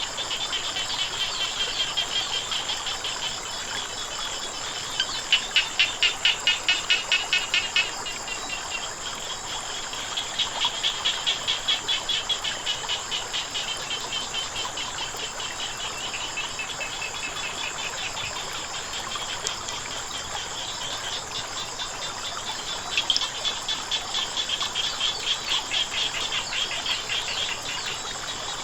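Frogs calling in bouts of rapid, evenly pulsed croaks, loudest about five seconds in, again around ten seconds and from about twenty-three seconds in, over a steady high-pitched insect chorus.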